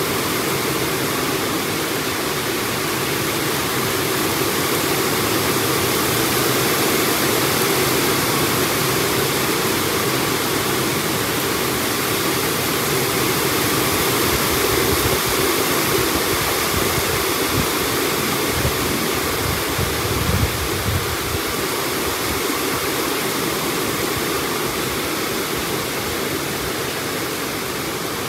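Heavy rain pouring down in a strong wind, a steady, dense hiss. About two-thirds of the way through there is a low rumbling swell.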